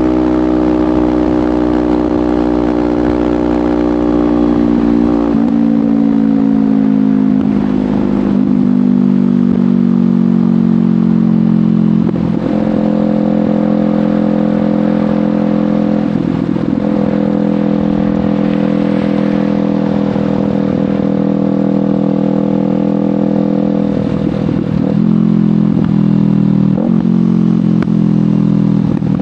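Kawasaki Ninja 500 parallel-twin running through a LeoVince GP Corsa Evo slip-on exhaust while riding. The engine note falls steadily over the first ten seconds or so, then holds a steady cruise, broken briefly a few times.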